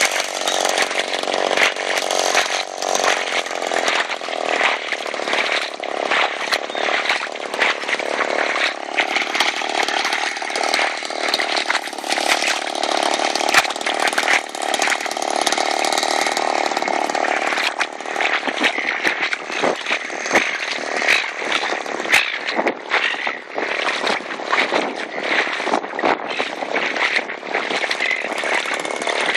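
The RC airboat's 62cc two-stroke chainsaw engine runs hard, driving an 18x12 propeller, with a steady engine note. From about 18 seconds in the note breaks up into a rougher, rattling sound.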